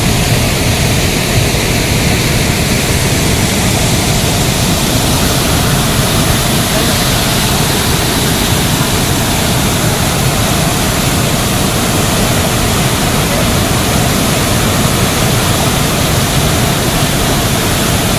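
Budha Ghagh waterfall: water falling in a loud, steady, unbroken rush.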